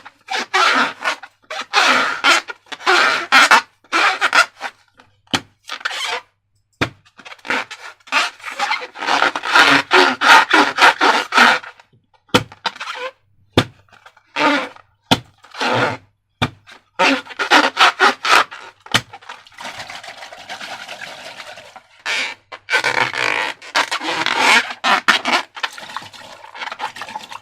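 Slime being squeezed and stretched by hand: a run of short, irregular wet squelching and crackling noises with a few sharp clicks.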